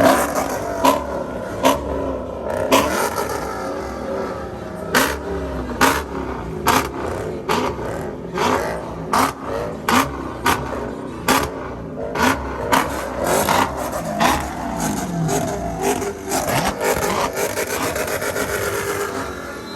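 High-performance V8 car engine being revved hard over and over, its pitch climbing and falling, with many sharp cracks between the revs.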